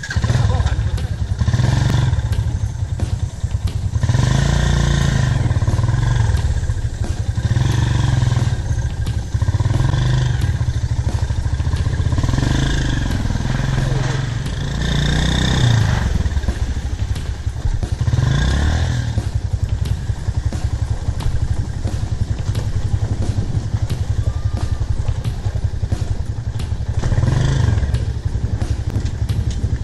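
Motorcycle engine running while riding, its pitch rising and falling repeatedly as the throttle is opened and closed, with occasional clattering knocks.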